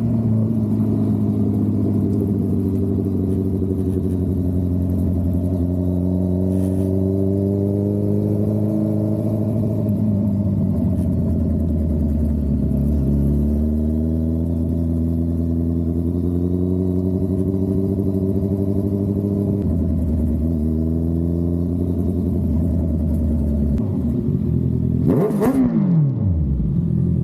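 A Honda CBR650R inline-four engine running through a Dominator aftermarket exhaust while under way. The note climbs in pitch several times with drops between, as the bike pulls up through the revs and shifts, and holds steady in between. Near the end comes a brief loud whoosh whose pitch falls steeply.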